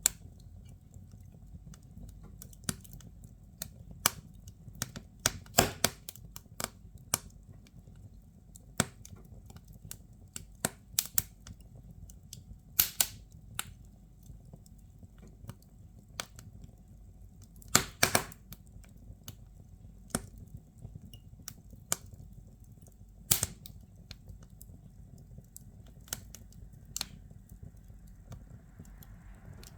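Firewood burning in a fireplace, crackling: irregular sharp pops and snaps, a handful of them much louder, over a low steady rumble.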